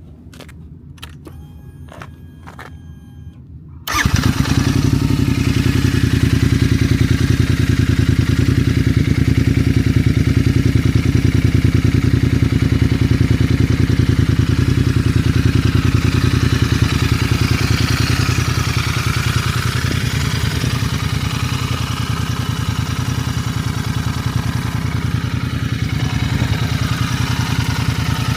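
Royal Enfield Interceptor 650 parallel-twin engine, breathing through a ZARD high-mount aftermarket exhaust, is started about four seconds in after a few faint clicks. It then idles steadily.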